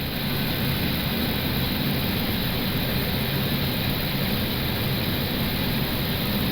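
Steady cockpit noise of an Airbus A320neo in flight: a continuous rush of airflow over the airframe with a low, even engine hum.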